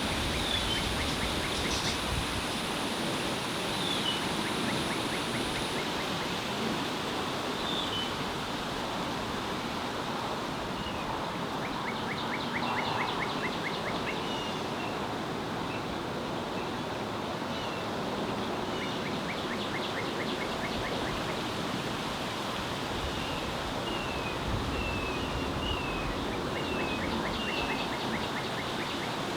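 Small songbird calling, unidentified: short high chirps scattered throughout, broken by a few rapid trills of about two seconds each. A steady outdoor hiss runs underneath.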